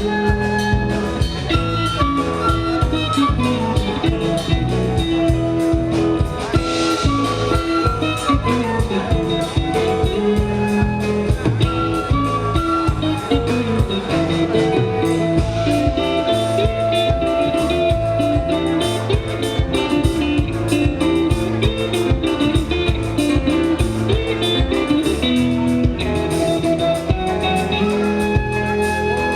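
Live band playing an instrumental passage: guitar melody over bass and drum kit with a steady beat.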